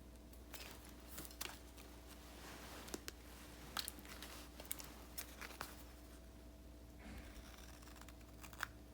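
Faint handling of paper stickers and sheets: crinkling rustles broken by light clicks and taps, coming in short scattered bursts with a brief lull near the middle.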